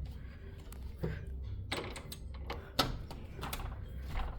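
A door's handle and latch clicking and knocking several times as the door is tried, over a steady low hum.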